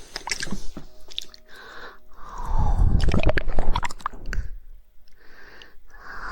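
ASMR mouth sounds close to the microphone: irregular wet tongue clicks and smacking, bunching into a quick run of clicks in the middle with short pauses between.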